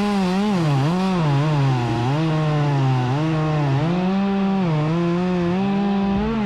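Chainsaw cutting through a limb, its engine note dipping under load and recovering several times, then falling as the throttle is let off at the very end. The cut is the final one from the top, through wood already thinned from below and the sides.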